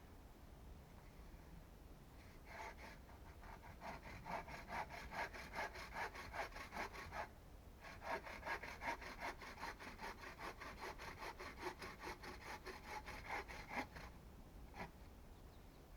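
Hand saw cutting through wood in quick, even back-and-forth strokes, in two runs with a short break about halfway. A single light knock follows near the end.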